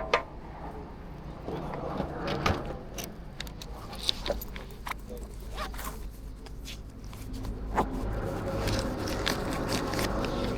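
Close handling noises, a scattered run of sharp clicks and scraping rasps, with a low steady engine hum setting in about seven seconds in.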